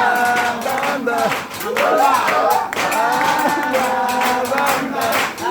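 Several voices talking and singing over one another, with clapping and music.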